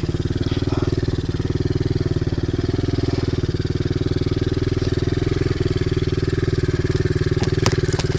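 Pit bike engine running at a steady, even speed with the throttle off, with a couple of sharp clicks near the end. The owner complains this engine revs up by itself and is slow to idle down.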